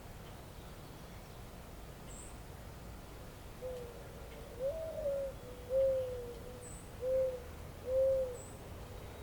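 A bird giving a series of about five low hooting notes, the second one rising and higher than the rest, over a steady faint outdoor background. A few faint, very high chirps come in between.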